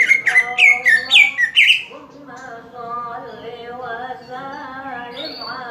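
Green leafbird (cucak ijo) song: a fast run of sharp, high, down-slurred chirps for about the first two seconds, then a short note about five seconds in. Underneath runs a slow, wavering sung voice, which is heard almost alone once the chirps stop.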